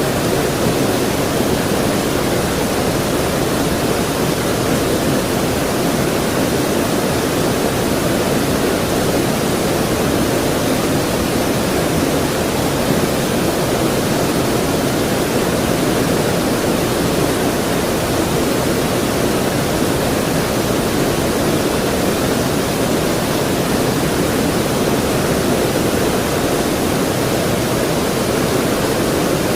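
Creek water rushing steadily in a dense, even wash of noise that does not change.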